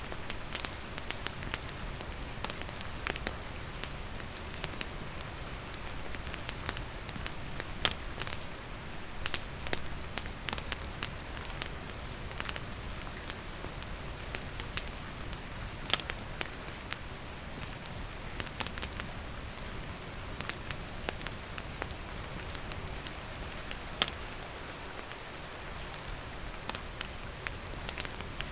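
Steady rain falling, with a wood campfire crackling: irregular sharp pops over the continuous hiss of the rain, a few louder snaps among them.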